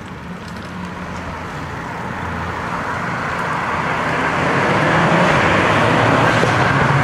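Road traffic noise growing steadily louder, with a low motor-vehicle engine hum underneath.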